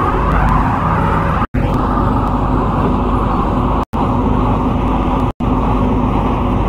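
MTR C-Train electric multiple unit running, a steady rumble with a faint hum. It is broken by brief dropouts to near silence, about once every second or two.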